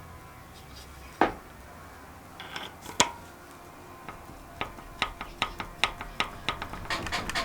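Metal tools and parts clinking: two sharp metallic knocks, then a run of short clicks that come faster and faster toward the end.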